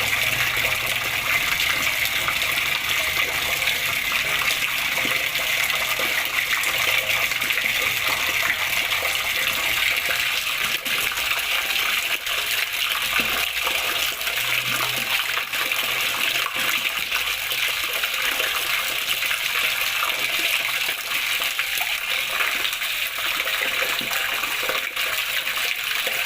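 Flowing water splashing in a steady, even rush.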